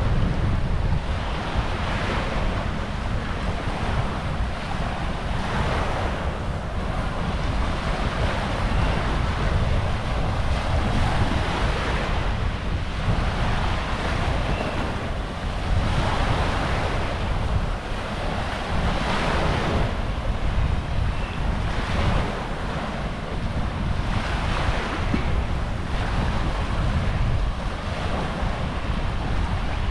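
Small waves breaking and washing up the shore every couple of seconds, with wind buffeting the microphone as a low rumble.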